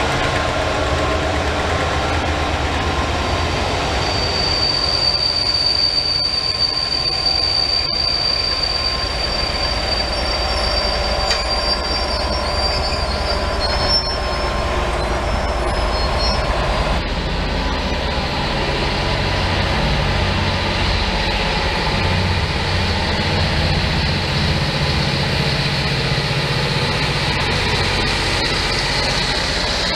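Passing rake of passenger coaches rolling by at speed, wheels running over the rail joints, with a high, steady wheel squeal for several seconds early in the run. About halfway through the sound changes abruptly to a West Coast Railways diesel locomotive passing, its low engine drone under the wheel noise.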